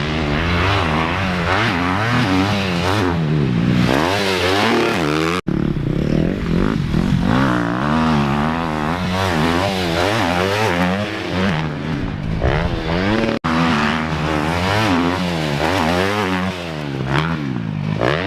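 2018 KTM 250 SX-F's single-cylinder four-stroke engine with an FMF 4.1 exhaust, revving up and down over and over as the throttle is worked. The sound breaks off abruptly twice.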